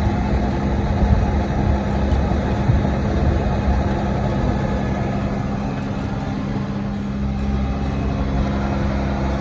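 Truck driving along at a steady pace: a constant engine drone with a steady hum and low road rumble.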